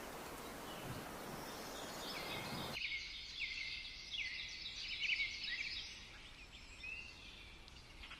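Yellow-rumped warbler singing: a run of quick, high chirping notes, busiest in the middle and thinning toward the end. A background hiss cuts off abruptly about three seconds in.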